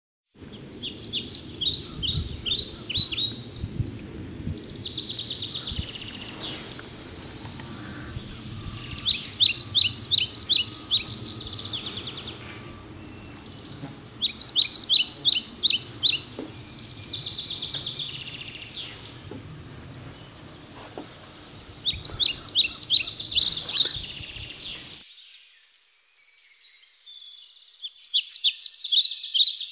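Songbirds singing in woods: short phrases of quick, high notes repeated every few seconds, with a second, trilling song in between. A low rumble underneath stops abruptly about 25 seconds in.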